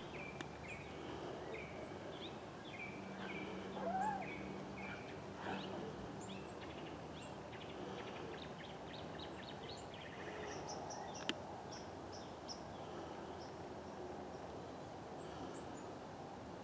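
Birds calling: a run of short, evenly repeated chirps, then thinner, higher notes in the second half, over a steady outdoor hiss. A single sharp click comes about eleven seconds in.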